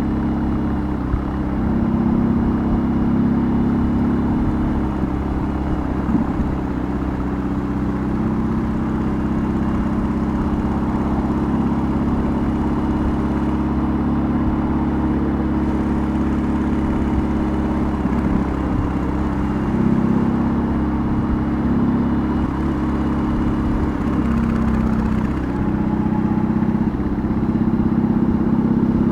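BMW R18's big air/oil-cooled boxer twin running steadily under way. The engine note stays even, with small dips and rises in pitch as the throttle eases and opens.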